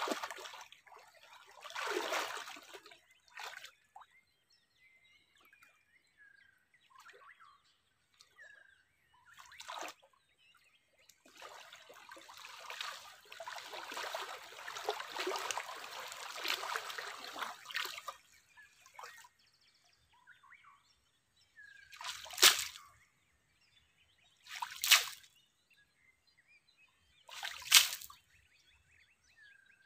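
Water splashing and sloshing in bursts: a long stretch of sloshing in the middle, then four short, sharp splashes about two and a half seconds apart.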